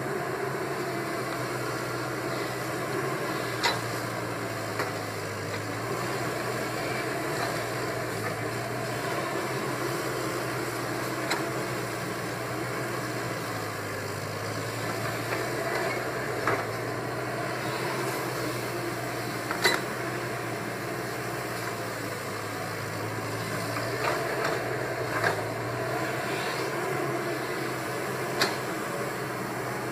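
Caterpillar 320 excavator's diesel engine running steadily, with about eight short sharp knocks scattered through it.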